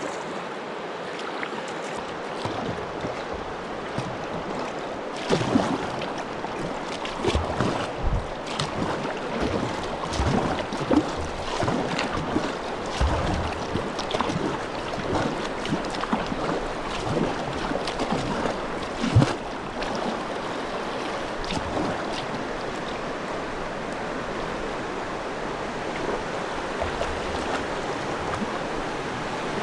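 Rushing water of river rapids around a kayak, with irregular splashes and knocks through the middle stretch, settling into a steadier rush of water near the end.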